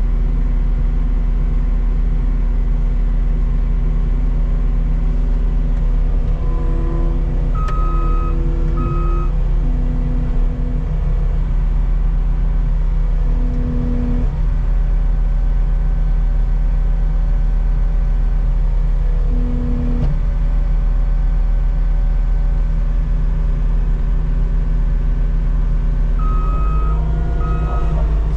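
Skid steer engine running steadily under load. A reversing alarm beeps briefly a couple of times about a third of the way in, and again several times near the end.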